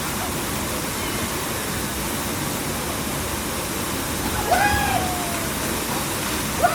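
Waterfall: a steady, dense rush of falling water. About four and a half seconds in, a brief pitched call with a slight downward slide rises above it, and a shorter one comes near the end.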